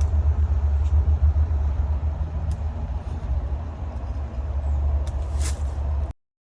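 Steady low rumble of a moving car's cabin, with a few light clicks near the end. The sound cuts off suddenly about six seconds in.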